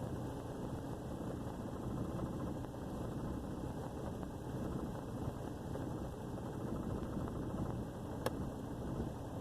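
Truck engine idling low and rough on a cold start, sagging as if about to stall. A single sharp click comes about eight seconds in.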